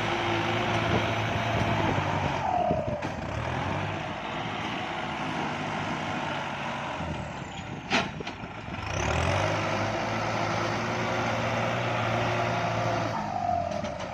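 Kubota diesel tractor engine working under load while building up a paddy-field bund, its note falling away and then picking back up twice. A short sharp click about eight seconds in.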